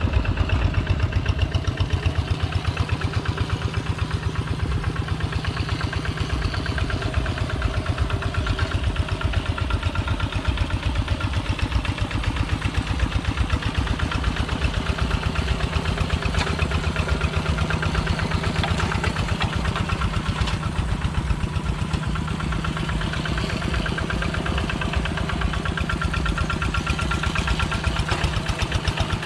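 Two-wheel walking tractor's engine running steadily with an even, rapid chugging pulse.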